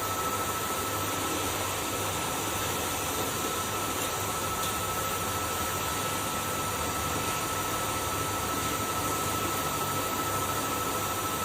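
Kärcher vacuum cleaner running steadily: an even rushing noise with a constant whine through it.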